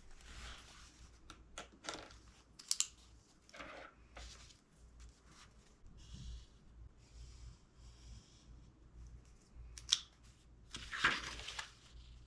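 Book pages rustling as they are handled and turned, with a few short swishes and sharp little clicks and taps between them; the longest rustle comes near the end. A low steady hum sits underneath.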